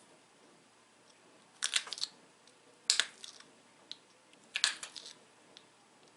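Pressure flaker pushing flakes off the edge of a small dacite arrowhead: three short, crunchy snaps, each a quick crackle of stone giving way, about a second and a half apart.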